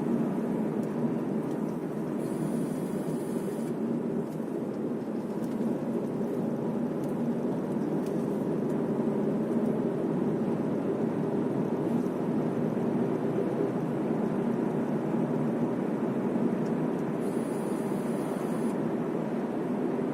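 Steady road noise heard from inside a moving car: a low, even rumble of engine and tyres on asphalt.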